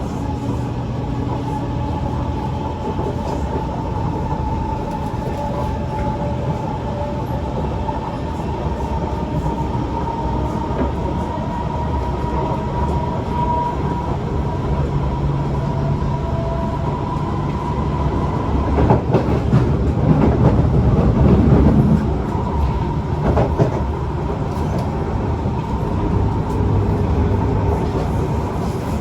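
Kawasaki C151 MRT train heard from inside the car while running between stations: a steady rumble of wheels on rail with a faint high tone. It grows louder and rougher, with some clatter, from about 19 to 23 seconds in.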